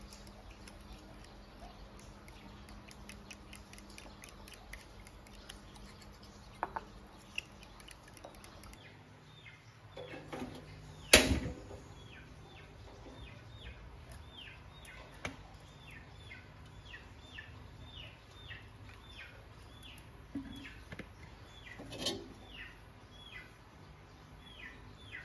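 A small bird calling over and over from about ten seconds in, short downward-sliding chirps about two a second. Just after the chirping starts there is one sharp knock, the loudest sound, and a softer knock follows near the end.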